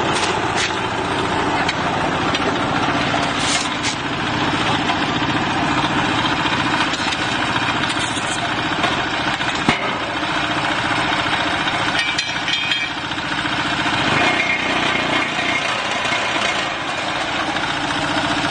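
Diesel engine of a QCM4-30 mobile block-making machine running steadily, with the machine's dense mechanical din and a few sharp knocks over it.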